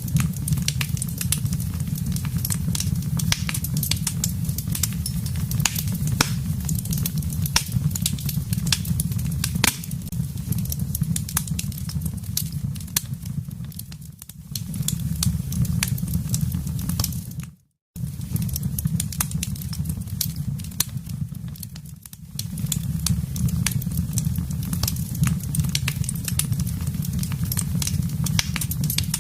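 Wood fire crackling: many sharp pops and snaps over a steady low rumble of the flames. The sound fades down and cuts out for a split second a little past halfway, then comes straight back.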